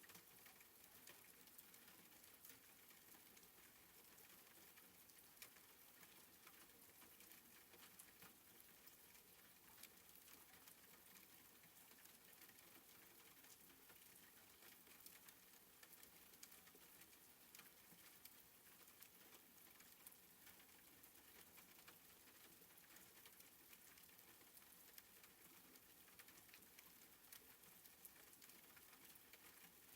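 Faint, soft rain: a steady hiss of falling drops, dotted with scattered light ticks of single drops.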